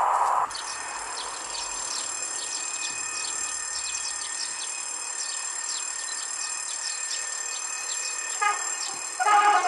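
Birds chirping with many short falling calls over a steady high-pitched whine, after a loud rushing noise cuts off about half a second in. Near the end an approaching train sounds its horn twice.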